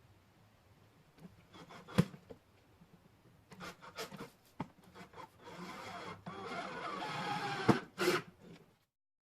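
Wooden parts being handled: a couple of sharp knocks and scattered clicks, then a few seconds of squeaky wood-on-wood rubbing that cuts off suddenly near the end.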